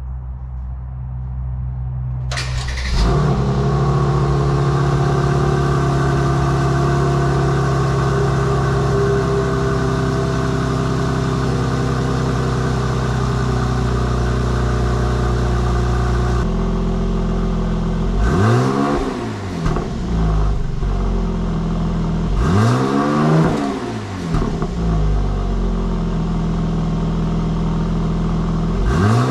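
Mercedes-AMG C43's twin-turbo V6 with the factory Performance Exhaust cold-starting about two and a half seconds in and holding a high, steady cold idle. Around sixteen seconds in it settles to a lower idle, then is revved twice with rising and falling blips, and revs again at the end.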